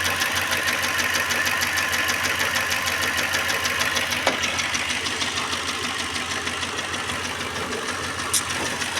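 Renault Clio engine running with a fast, steady ticking clatter from the valve train. The mechanic traces it to the rocker arms, which have too much clearance and need the valves adjusted.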